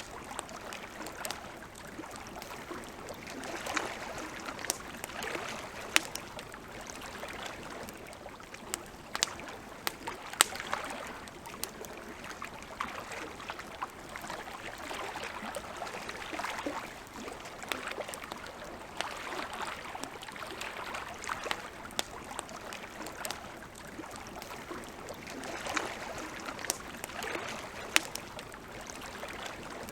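Wood campfire crackling: a steady hiss under frequent, irregular sharp pops, a few of them louder than the rest.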